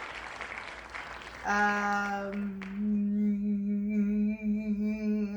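Noise for about a second and a half, then a person humming one long held note, steady with slight wavers in pitch.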